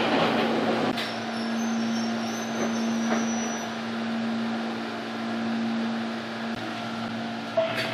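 Inside a former Keio 3000 series electric train as it slows to a stop at a station and stands: a steady hum, with a sharp click about a second in and another near the end.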